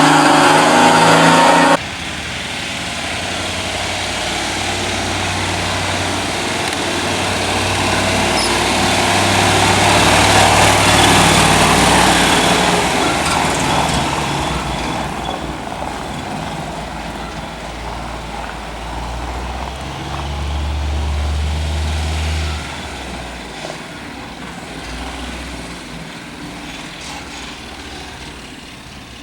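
Heavy truck engine running as the truck goes by: it grows louder to a peak about ten seconds in, then slowly fades, with a change in engine note a little past twenty seconds. A different, louder engine sound cuts off abruptly about two seconds in.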